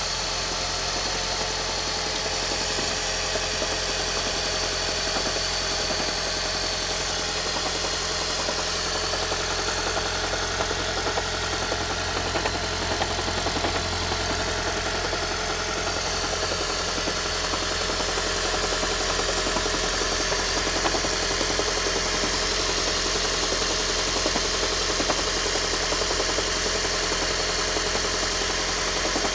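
Toyota Prius making an abnormal noise: a steady mechanical running sound that stays even throughout.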